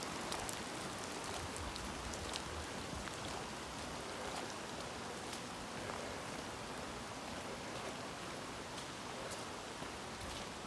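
Steady heavy rain falling, with scattered drops ticking close by.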